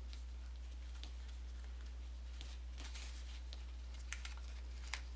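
Sheet of origami paper rustling and crinkling softly as it is creased into an inside reverse fold, with scattered small clicks and two sharp ticks near the end, over a steady low electrical hum.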